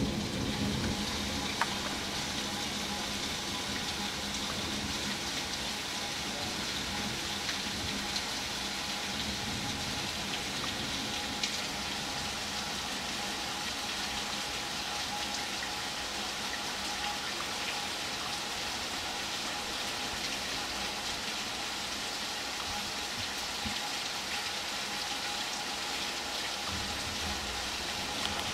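Heavy rain falling steadily in a thunderstorm, an even hiss of rain without letup.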